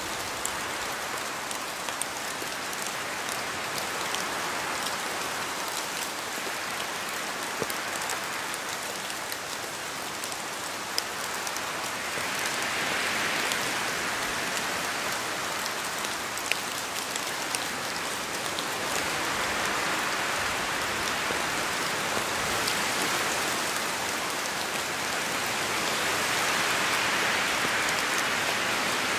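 Steady rain falling, a dense even hiss of drops with occasional sharper single drop ticks, growing slightly heavier a few times, around 13, 20 and 27 seconds in.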